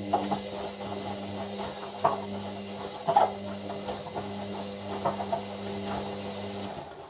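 Hoover washer dryer's drum motor turning the drum through a tumble with a steady hum, the load knocking against the drum a few times; the motor winds down and stops near the end.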